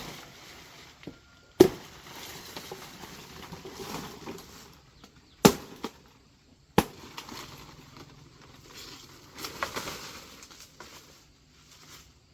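Three sharp, separate blows of a hand tool on wood, about 1.5, 5.5 and 7 seconds in, with softer rustling and handling noise between them.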